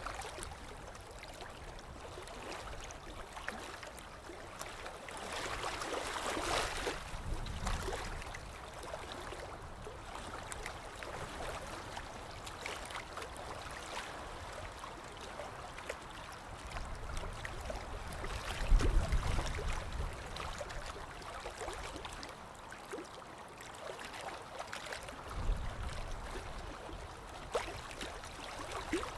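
Moving water splashing and lapping, a continuous wash with a louder swell about six seconds in and a few low bumps later on.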